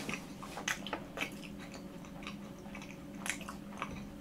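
Close-miked chewing of a macaron: soft, moist mouth sounds with scattered small clicks and smacks, a few of them sharper.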